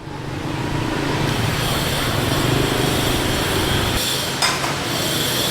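A motor running with a steady low hum over a busy background, and a single sharp clink of metal or crockery about four and a half seconds in.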